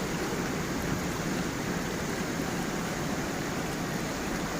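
Gentle stream of running water tumbling over stones, a steady, even rush.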